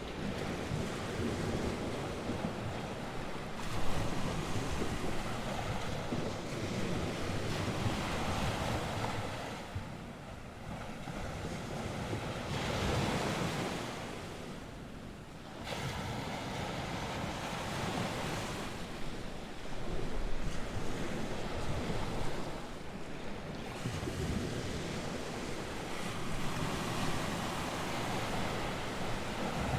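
North Sea surf: waves breaking and washing on the shore, swelling and ebbing every few seconds, with wind buffeting the microphone.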